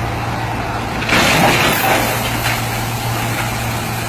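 Heavy truck and traffic noise with a steady low engine hum. About a second in, a louder rushing noise rises and lasts about a second.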